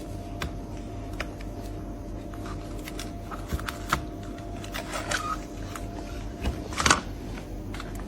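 Scattered light clicks and rattles over a steady low hum, with a louder brief noise about seven seconds in.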